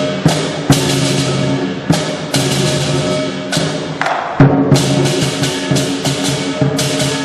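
Lion dance percussion: big drum, gong and cymbals playing loudly, with sharp cymbal clashes at an uneven beat, several in quick succession about halfway through, over the ringing of the gong.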